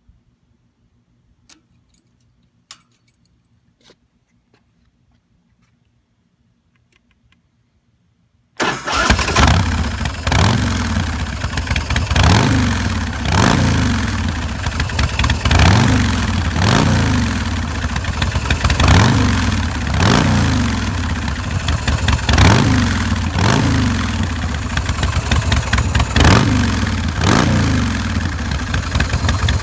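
A few faint clicks, then the 2006 Big Dog K9's carbureted 117 cubic inch S&S V-twin starts suddenly about eight and a half seconds in and runs through its Vance & Hines Big Radius exhaust. Once running, the engine speed rises and falls in a steady rhythm about once a second.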